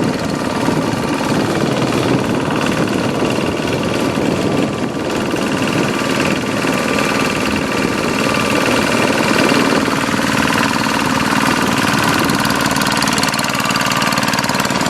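Single-cylinder diesel engine of a two-wheeled hand tractor running steadily as it ploughs a rice paddy.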